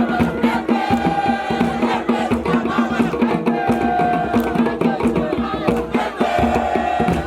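Group singing together over a quick, steady percussion beat.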